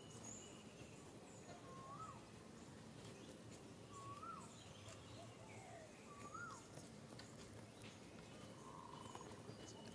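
Faint bird calls: a short whistled note that rises and then falls, repeated about every two seconds, with fainter high chirps from other birds in the background.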